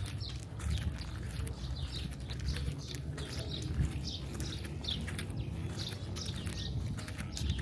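Small birds chirping over and over in short, quick falling notes, over a steady low rumble of city background.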